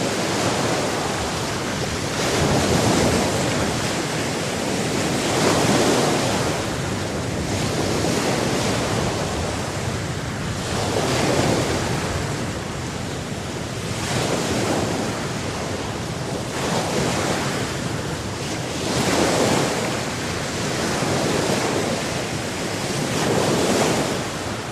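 Ocean waves breaking and washing on the shore, rising and falling in swells every few seconds, with some wind.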